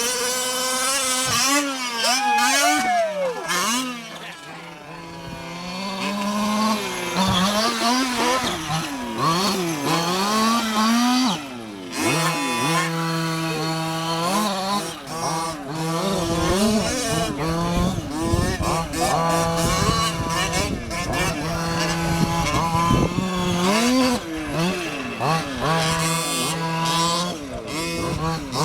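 Small two-stroke gasoline engines of 1/5-scale Losi 5IVE-T RC trucks revving up and down again and again as they accelerate, launch and land, with more than one engine at times. About four to six seconds in they fade quieter, then settle later into a steady high buzz broken by further revs.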